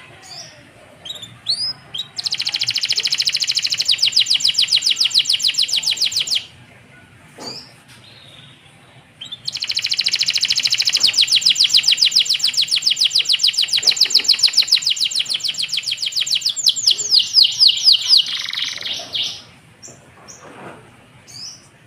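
Domestic canary singing: two long, fast trills of rapidly repeated high notes, the second lasting about ten seconds and slowing into separate, spaced notes near its end, with short chirps between the trills.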